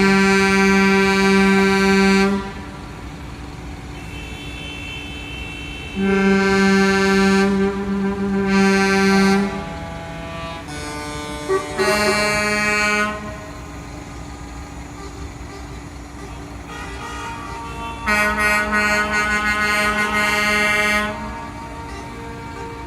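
Truck air horns sounding in long steady blasts, about five in all: one at the start, two close together around six to nine seconds in, a short one near twelve seconds and a long one about eighteen seconds in. Between the blasts a lower steady background hum continues.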